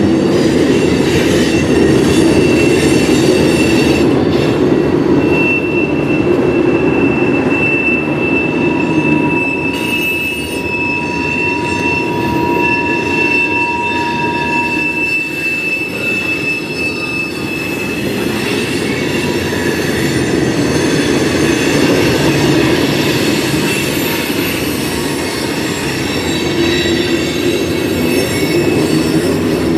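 Railroad cars rolling past with a steady, loud wheel rumble. Steel wheels squeal on the rail at one high pitch from about five seconds in until a little past halfway, with a lower squeal joining for a few seconds in the middle.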